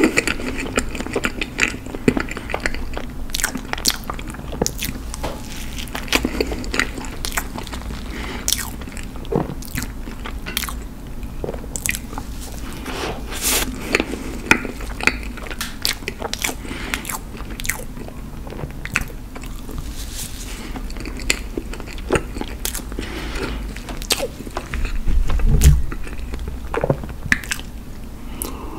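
Close-miked chewing of soft red velvet cake: wet mouth sounds with many quick, irregular lip smacks and clicks, and no speech.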